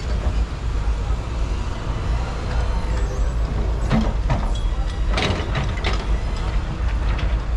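Heavy vehicles at an earthworks site: a steady low engine and traffic rumble, with a few short clanks or hisses about halfway through.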